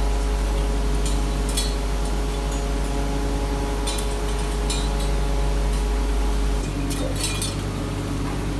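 Steady hum of workshop machinery with a few light metallic clinks. The hum changes about two-thirds of the way through.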